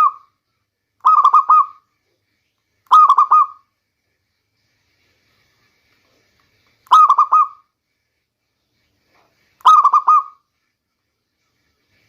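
Zebra dove (local perkutut) cooing: short phrases of three or four quick rolling coos, each under a second long. One phrase is just ending at the start, then four more follow at gaps of one to four seconds.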